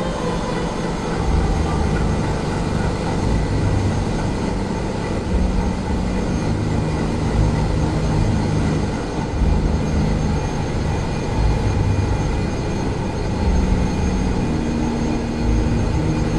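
Ship's engine room machinery running: a loud, steady mechanical din, deepest at the bottom, with several steady humming tones over it.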